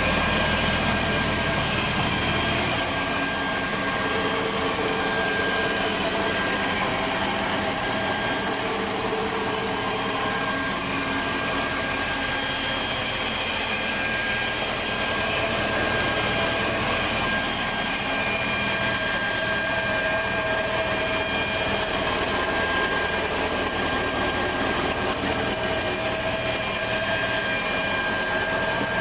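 Volvo Penta 5.7 GiH V8 sterndrive engine running steadily, with a steady whine over the engine noise. The deep low end drops away about three seconds in.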